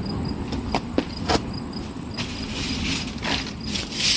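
Insects chirping in an even rhythm, with a steady high buzz, over a low rumble. A few clicks come in the first second or so, and a rustling noise follows in the second half.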